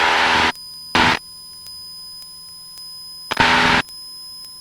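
Cessna 172 cabin noise, engine and wind, heard through the headset intercom, cutting in and out as the intercom gate opens and closes: it drops away about half a second in, leaving a faint steady electronic hum and tones, then comes back briefly twice, about a second in and again about three and a half seconds in.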